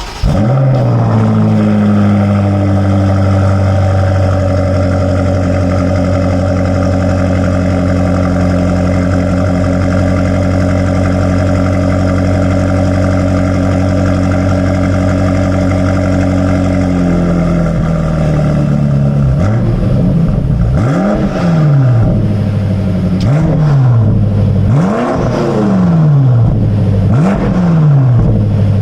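2020 BMW X5 M Competition's twin-turbo V8 through an Akrapovič exhaust starting up and settling into a steady idle, which drops a little in pitch after about seventeen seconds. In the last ten seconds it is revved in six quick throttle blips, about one every second and a half.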